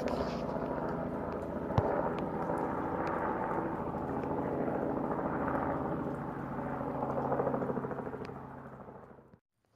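An engine running steadily, fading over the last couple of seconds before cutting off abruptly.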